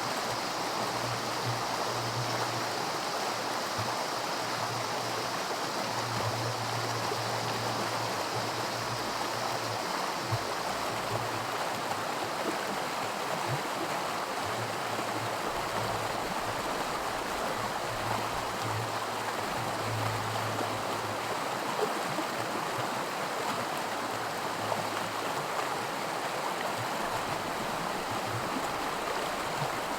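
Creek water rushing steadily over a small stretch of miniature white water, a continuous splashing rush.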